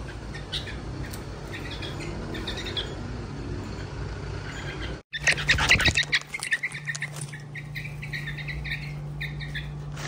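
Caged pet birds chirping and squawking. The calls are faint and sparse at first, then after a break about five seconds in they become a loud run of rapid chirps over a steady low hum.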